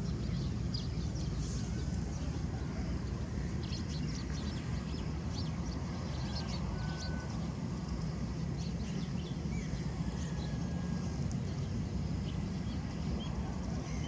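Morning field ambience: a steady low rumble under many faint, short, high bird chirps.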